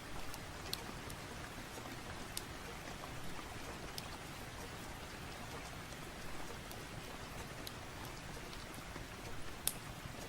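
Steady rain falling, an even hiss with a few sharp pops and clicks scattered through it, the loudest near the end.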